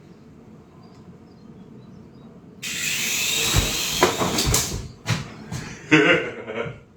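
Small RC helicopter's electric motor and rotor blades spinning up suddenly and loudly about two and a half seconds in, with a few sharp knocks as it lifts off, then running in shorter uneven bursts near the end.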